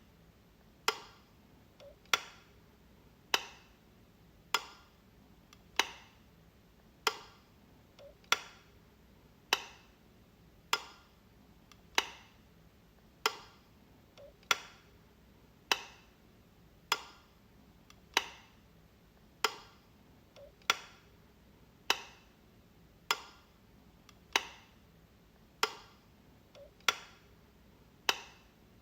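Wall light switch clicking, one sharp click about every 1.2 seconds in an even rhythm, now and then with a faint extra tick just before the main click.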